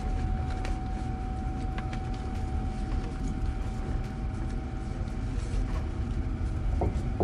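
Inside a passenger train carriage: a steady low rumble with one constant whine over it and a few faint clicks. The whine stops just before the end.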